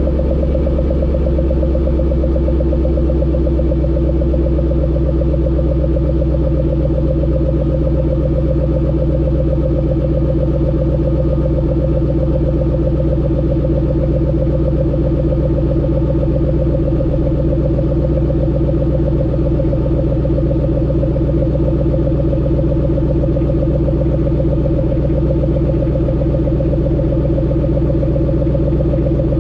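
Stock exhaust of a 2012 Ford Mustang GT500's supercharged 5.4-litre V8, idling steadily without revving.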